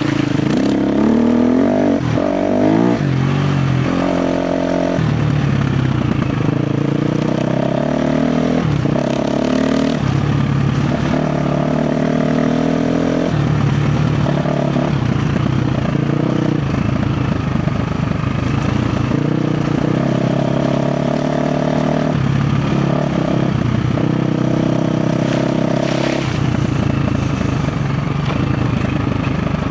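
KTM 350 XC-F dirt bike's single-cylinder four-stroke engine running under load on the trail, revving up and down in the first few seconds, then holding fairly steady with repeated throttle changes.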